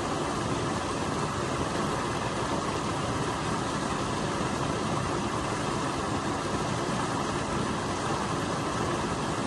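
Stream water rushing steadily over a small waterfall where it is channelled under a bridge.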